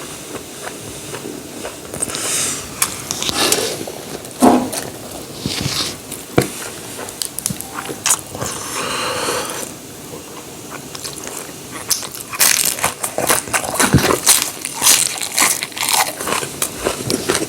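People eating: chewing and crunching, with scattered clicks and scrapes, busier in the last few seconds.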